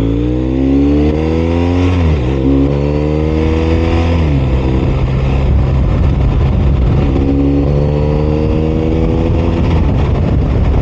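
BMW R 1250 RS's 1254 cc boxer twin engine accelerating through the gears: its pitch rises and drops sharply at upshifts about two and four seconds in, holds steady for a few seconds, then climbs again and drops at another shift near the end.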